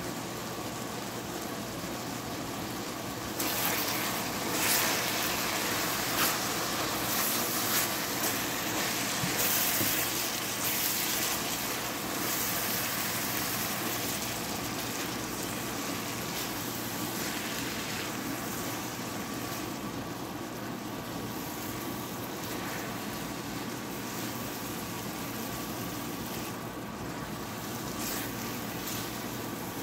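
Mee goreng noodles in sauce sizzling in a wok while a spatula stirs and tosses them, louder and busier from about three seconds in until about thirteen seconds in, over a steady background hum.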